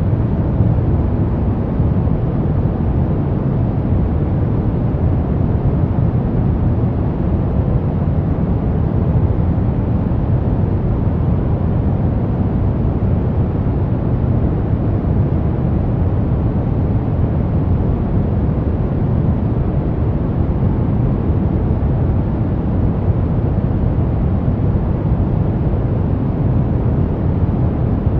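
Brown noise: a steady, unchanging deep rushing hiss, strongest in the low end and rolling off towards the highs.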